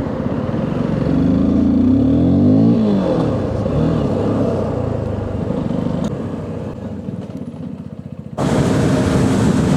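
Motorcycle engine under way, pulling up in pitch as it accelerates about a second in, then easing off and getting quieter; about eight seconds in the level jumps suddenly to a steady engine tone.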